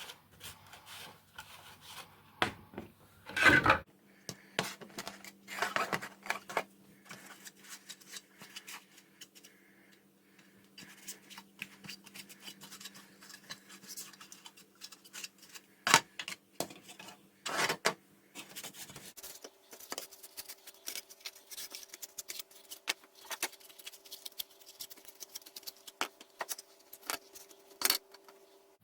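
3D-printed plastic mask pieces being wiped down with a damp cloth and handled: soft rubbing with scattered clicks and knocks of plastic being picked up and set down, over a faint steady hum.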